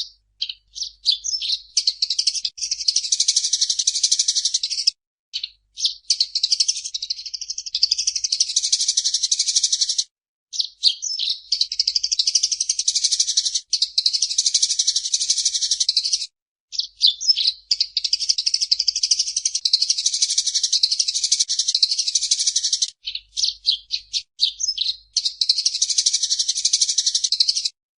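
Eurasian tree sparrow chattering: about five bouts of fast, dense, high-pitched chirping, each several seconds long and opening with a few separate chirps, broken by short silences.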